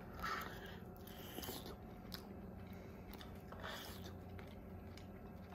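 A man biting into a piece of pan-cooked squirrel meat and chewing it: faint chewing and mouth sounds with a few soft clicks.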